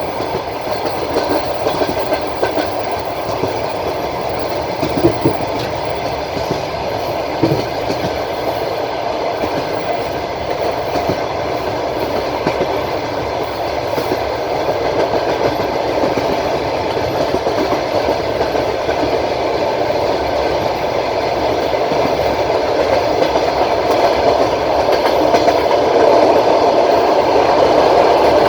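Passenger train wheels running on the rails, heard from inside the carriage: a steady rumble with two knocks about five and seven and a half seconds in, growing a little louder near the end.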